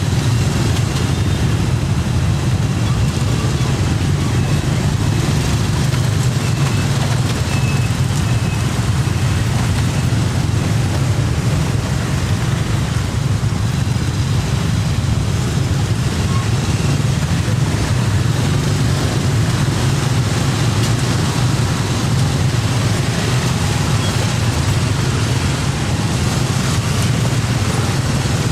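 Road traffic: a steady low rumble of engines and tyres under a constant hiss, even in level throughout.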